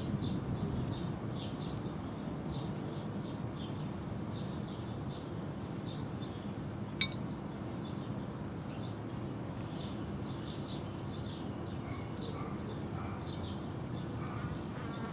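Small birds chirping over and over against a steady low background rumble, with one sharp clink about seven seconds in.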